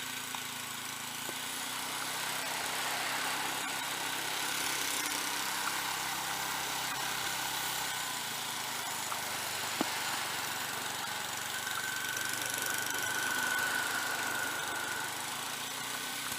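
Small gasoline snowblower engine running steadily, with a faint high whine for a few seconds past the middle.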